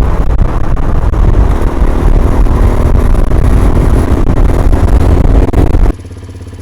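Wind buffeting the microphone over the 125cc motorcycle's engine while riding, loud and rumbling. About six seconds in it cuts off abruptly to a much quieter, steady engine running.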